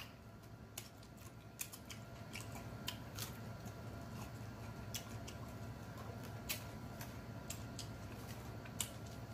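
Quiet close-miked chewing: scattered sharp mouth clicks and smacks as a mouthful of food is eaten.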